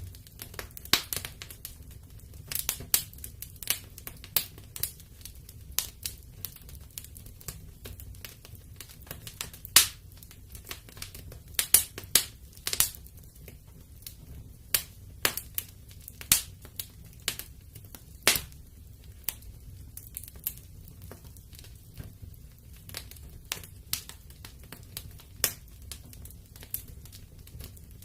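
Wood fire in a fireplace crackling, with irregular sharp snaps and pops, a few of them loud, over a low steady rumble of the flames.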